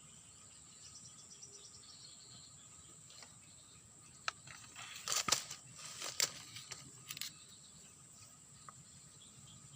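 Insects trilling steadily in one high, unbroken tone. A cluster of sharp clicks and short rustles, the loudest sounds, comes a little past the middle.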